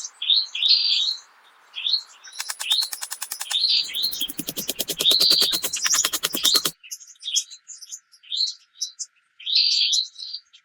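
Forest birds chirping: short, repeated chirps. A fast, even run of clicks or taps comes in after about two seconds and lasts about four seconds.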